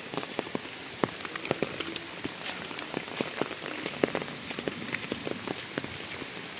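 Steady rain falling, with many single drops landing close by as sharp little taps over the hiss.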